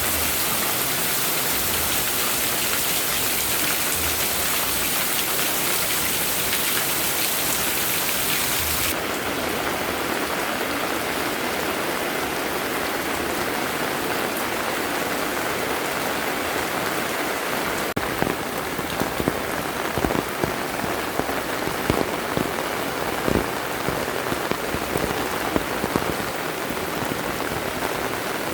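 Heavy, steady rain falling on surfaces. About a third of the way in the hiss turns less bright, and from about two-thirds in, sharp irregular splats of single drops landing close by stand out over the downpour.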